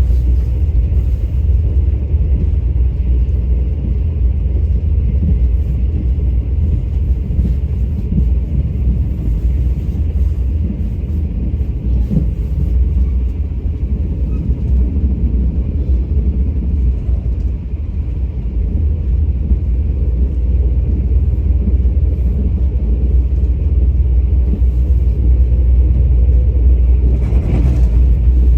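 Train running with a steady, deep rumble and faint clicks over it, swelling briefly into a louder rush near the end.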